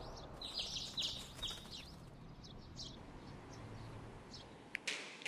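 Small birds chirping: a quick run of short, high chirps in the first few seconds that thins out, over a low steady hum. A few sharp clicks come near the end.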